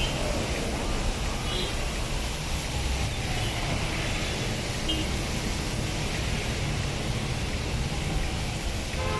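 Steady hiss of rain mixed with road traffic noise from passing vehicles.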